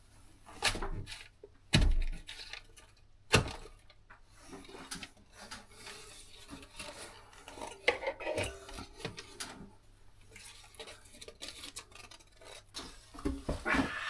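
A hand-held retrieval tool knocking and scraping inside the cavity behind a concealed toilet cistern as it fishes for a loose paper. Three sharp knocks come in the first four seconds, then a stretch of scraping and rattling, and a cluster of knocks near the end.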